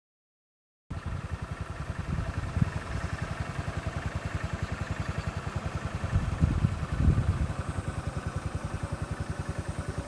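A small engine running steadily with an even, rapid low pulse, cutting in about a second in after a moment of silence.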